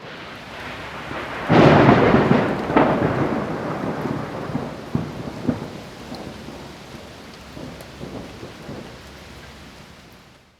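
Thunderstorm with rain. Steady rain hiss, then a loud crack of thunder about a second and a half in that rolls on with a few smaller cracks. The thunder slowly dies away before the sound cuts off.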